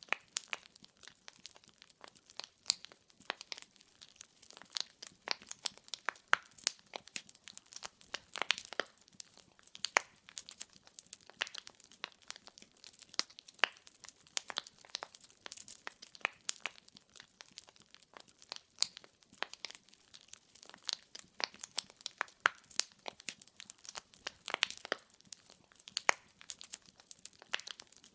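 Firewood burning in a fireplace, crackling and popping with many sharp, irregular snaps over a faint hiss.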